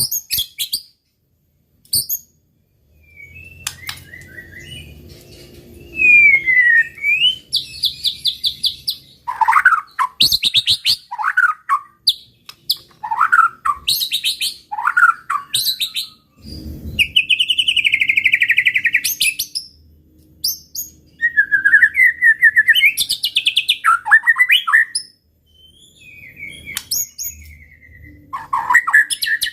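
White-rumped shama (murai batu) singing a loud, varied song in short phrases with brief pauses: clear whistled slurs that fall in pitch, rapid trills and buzzy, rattling stretches.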